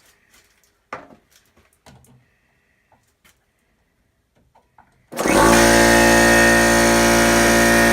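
A few faint knocks, then about five seconds in the Porter-Cable 24-gallon air compressor's electric motor and oil-lubricated pump start suddenly and run steadily and loudly, starting to fill the tank.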